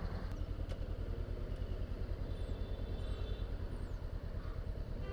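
Honda CBR500R's parallel-twin engine running steadily at low revs, an even low pulsing rumble with no revving.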